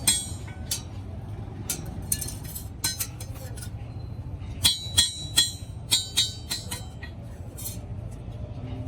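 Sharp metallic clinks and taps, each ringing briefly, coming in irregular clusters (a busy run about halfway through), over a steady low hum: metal parts being struck or handled during muffler fabrication.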